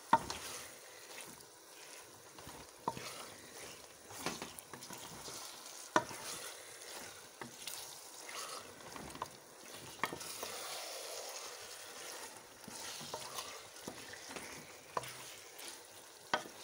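Wooden spoon stirring minced meat frying in oil in a metal pot: a steady sizzle, with the spoon knocking sharply against the pot several times.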